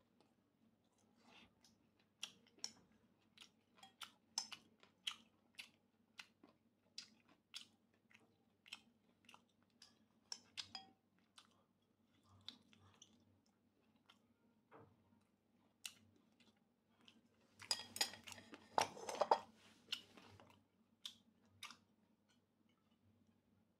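Faint close-up chewing of fried pork cartilage sausage: short wet smacks and small crunches, about one to two a second, thinning out about halfway. Near the end comes a louder, denser patch of crackling lasting about three seconds.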